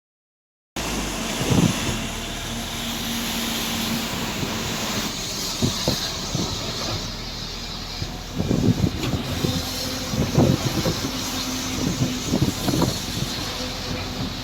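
A vehicle on the move: a steady running noise with a faint low hum and irregular knocks and bumps. The sound starts under a second in.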